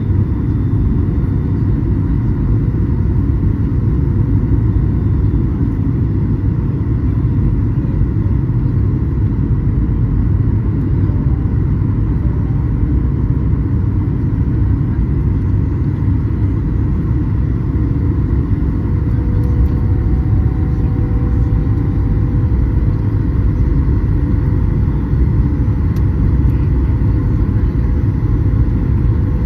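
Steady low rumble of a Flydubai Boeing 737 airliner's engines and rushing air, heard from inside the cabin during the approach, with a faint steady whine above it.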